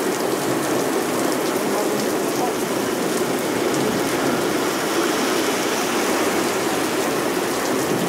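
Torrential thunderstorm rain pouring down steadily onto the pavement, road and hedge.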